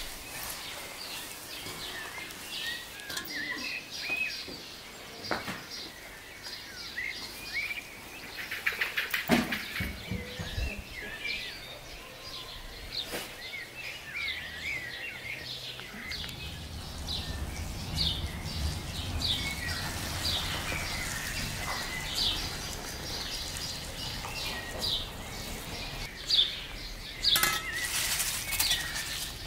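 Small birds chirping and singing, many short chirps with a quick run of them about a third of the way in. About halfway a low steady rumble joins, and near the end come a few sharp clicks.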